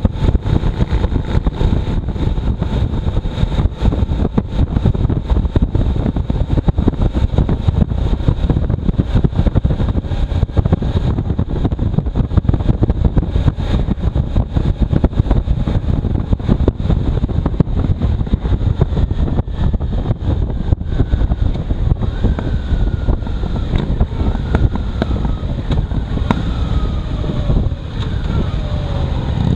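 A motorcycle under way with heavy wind buffeting on the microphone, a steady low rumble throughout. In the second half the engine's pitch rises and falls several times.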